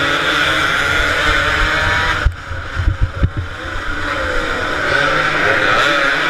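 Several two-stroke motorcycle engines racing, revving up and down together; the uploader believes most are Yamaha RD 135s. About two seconds in, the engine sound dips briefly and a few low thumps come through, then the engines build again.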